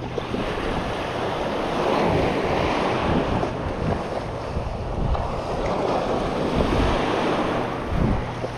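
Waves washing in the shallows, with wind buffeting the microphone: a steady, loud rush of water noise.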